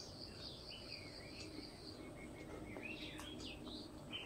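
Faint birdsong: high whistled calls, one note held for about two seconds in the first half and a cluster of short gliding chirps about three seconds in, over low steady background noise.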